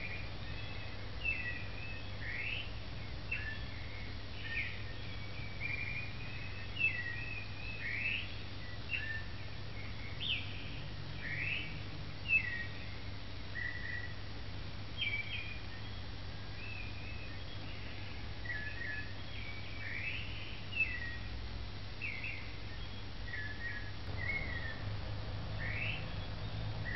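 Birds calling in short chirps and whistles, some sweeping quickly upward, scattered about once a second, over a steady low hum.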